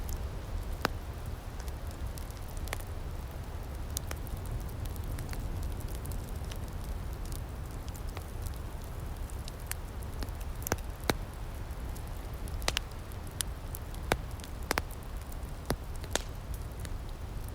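Wood fire in an outdoor firepit crackling, with irregular sharp pops and snaps over a steady low rumble.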